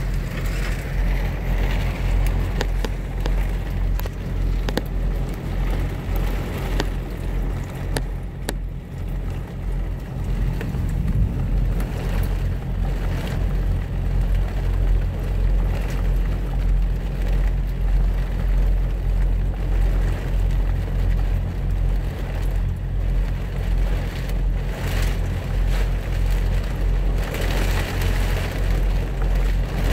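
Heavy rain on a semi truck's cab and windshield, heard from inside the cab, with scattered sharp drop ticks on the glass over a steady low hum of the truck's diesel engine idling. The rain swells heavier near the end.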